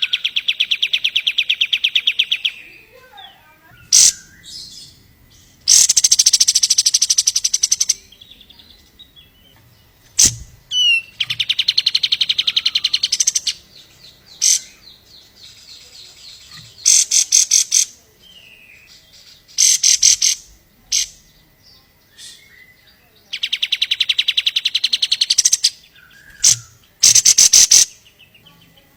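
Kapas tembak songbird singing: high, very rapid trills about one to two seconds long, repeated several times with short pauses and a few brief chirps in between.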